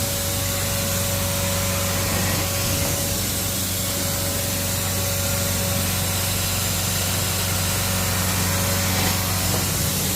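Carpet-cleaning extraction machine running steadily, its vacuum giving a constant hiss over a low hum.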